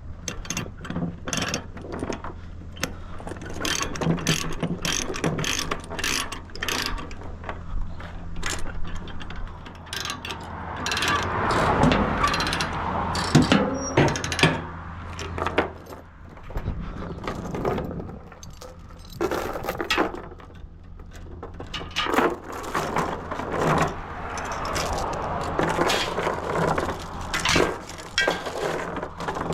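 A steady low engine drone under many irregular clicks, rattles and clanks.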